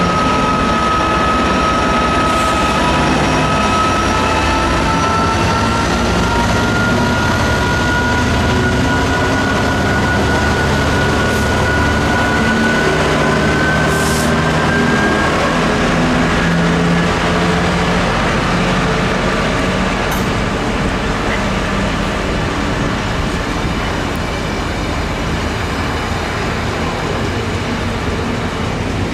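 Class 66 diesel locomotive with its EMD two-stroke V12 running under power as it hauls a loaded stone train past, a steady whine rising slightly in pitch over the first half. The loaded stone wagons roll past on the rails as the locomotive draws away.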